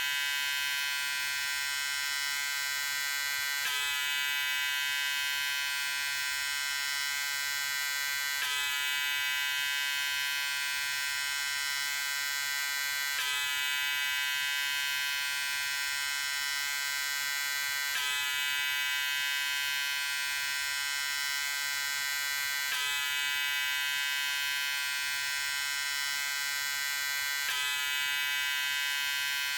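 Electric shaver running with a steady high buzz, its pitch unchanging. A slight catch in the sound repeats about every five seconds.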